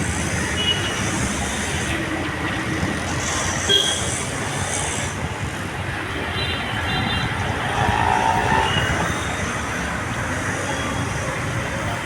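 Steady road traffic noise, with a few brief high tones about a third and halfway in.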